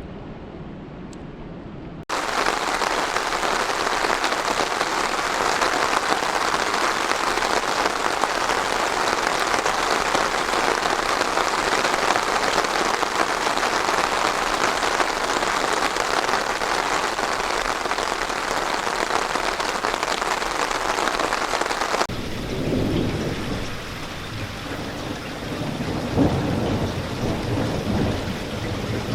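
Heavy rain falling in a dense, steady hiss, cutting in abruptly about two seconds in. Near the end the sound switches abruptly to lighter rain with low rolling thunder.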